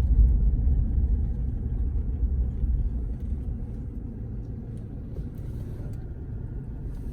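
Low, steady rumbling noise with no clear tones, fading over the first few seconds and then holding at a lower level.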